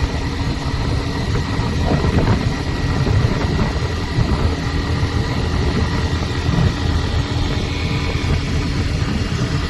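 Hero Xtreme 125R's single-cylinder engine running steadily at highway speed, with a steady whine in it over the riding noise: a strange-sounding noise of unknown cause that the rider cannot identify.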